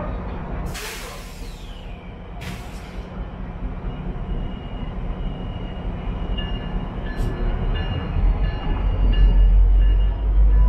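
A train running past with a steady low rumble that grows much louder in the last few seconds. Two short hissing bursts come about a second and two and a half seconds in.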